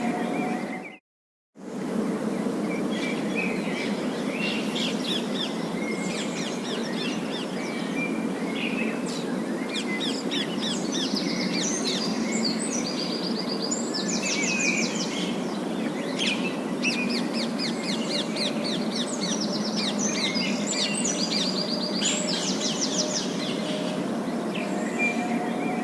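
Parakeets chattering: many quick chirps and fast warbling trills over a steady low background hum. There is a brief gap of silence about a second in.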